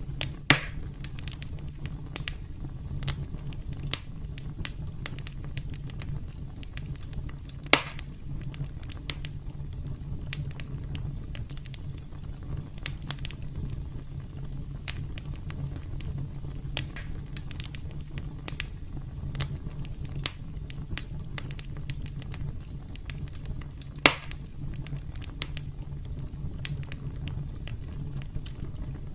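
Wood campfire crackling steadily: many small snaps and pops over a low, even rumble of flames, with three louder pops, about half a second in, around a quarter of the way through and late on.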